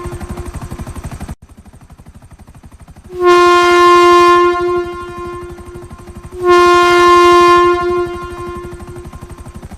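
Train horn blowing two long blasts of a single steady note, each about a second and a half, about three seconds apart, over a rapid, steady rhythmic rumble of the moving train. The fading end of an earlier blast is heard at the start, before an abrupt cut.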